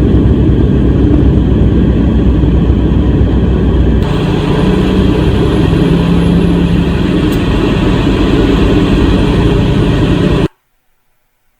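Steady low rumble of a vehicle driving, engine and road noise. The sound changes abruptly about four seconds in, then cuts off suddenly to silence near the end.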